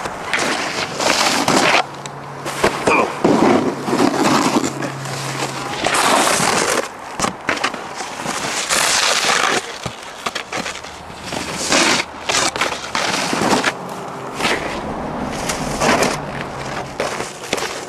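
Snowboard scraping and sliding over snow in repeated hissing surges, with a small engine humming faintly at times.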